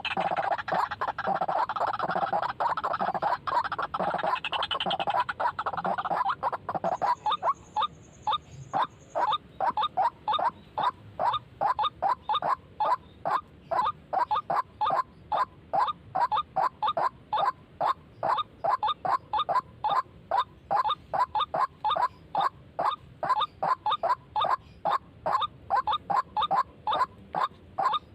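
White-breasted waterhen (ruak-ruak) calls: a dense, overlapping stretch for about the first six seconds, then a steady run of short repeated notes, about two or three a second.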